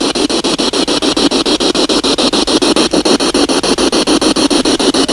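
Spirit box (radio sweep device) scanning rapidly through stations: a steady, fast-chopping static at about eight pulses a second.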